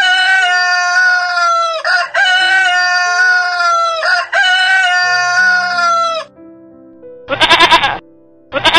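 A rooster crows three times in close succession, each crow about two seconds long with a falling tail. Near the end a goat bleats twice in short, wavering calls, over soft background music.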